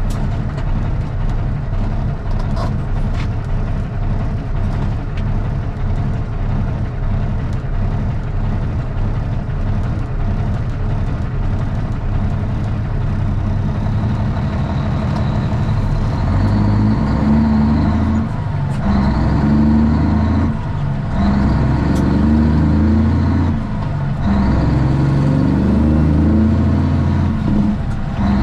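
Straight-piped Cummins ISX diesel in a Kenworth T800 running: a steady low rumble at first, then from about halfway it gets louder and heavier, with three short drops in the note.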